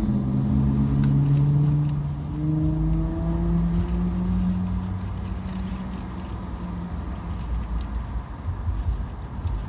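A car driving, its engine hum rising slowly in pitch for several seconds as it speeds up, then fading into a steady low road rumble.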